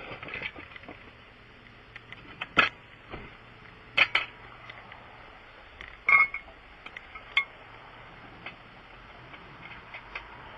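A few sharp metallic clicks and clinks, spaced a second or more apart, with one short ringing clink about six seconds in: metal tools or parts being handled while a flat tire change is set up.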